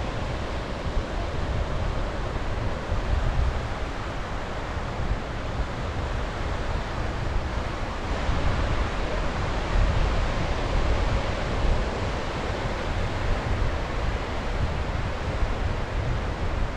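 Sea waves breaking and washing on the shore in a steady rush that swells and eases, with wind buffeting the microphone as a low rumble.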